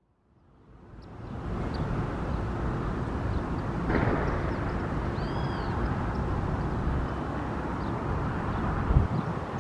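Steady rumble of an approaching Boeing 737-800's CFM56-7B jet engines, fading in over the first second or so, with a few faint bird chirps over it and a brief thump near the end.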